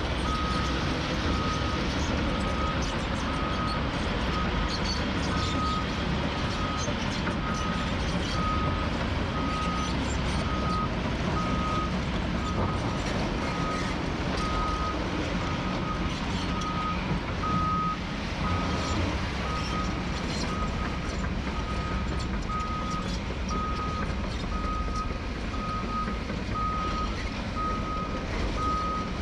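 Reversing alarm of a heavy construction machine beeping steadily about once a second, over the constant rumble of diesel engines.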